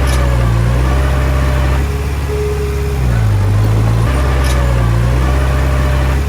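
Heavy diesel engine of earthmoving machinery running hard. Its low hum and higher tones shift in pitch about two seconds in and again about four seconds in, as the engine's load changes.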